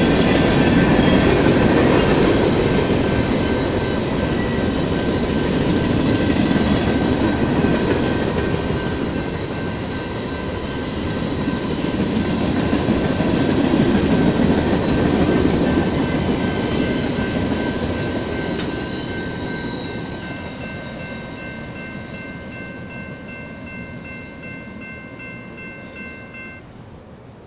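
BNSF freight train rolling past: a steady rumble of wheels on rail that fades over the last several seconds as the end of the train moves away. Steady high ringing tones sound above the rumble and stop shortly before the end.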